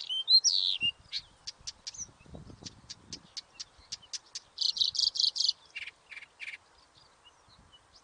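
Small songbird singing: whistled notes gliding up and down in the first second, then a run of sharp ticks and a string of short, buzzy notes around the middle.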